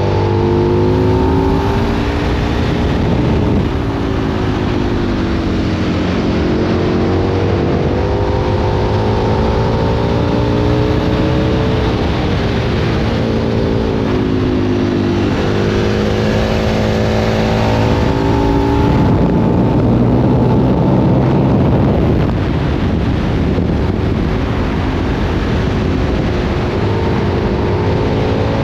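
2003 Aprilia Tuono 1000's V-twin engine through a Remus aftermarket exhaust, under way and accelerating: the engine note climbs in pitch in stretches and drops back several times as the rider shifts gears.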